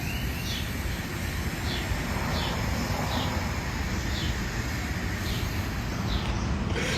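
A bird chirping short falling notes every second or so over a steady low rumble.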